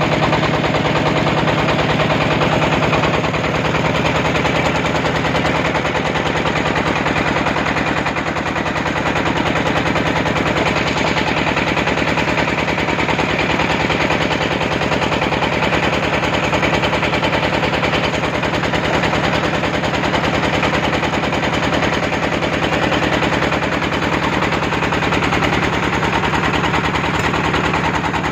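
A boat's engine running steadily with a loud, fast, even chugging.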